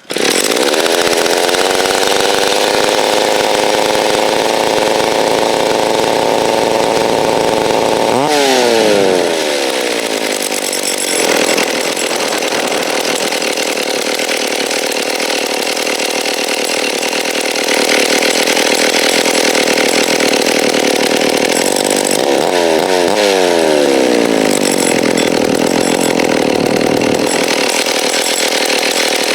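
Rebuilt McCulloch Timber Bear two-stroke chainsaw engine catching on its first start-up with the choke on and throttle lock set, then running fast. Its speed drops sharply about eight seconds in, climbs again, and drops once more around twenty-two seconds.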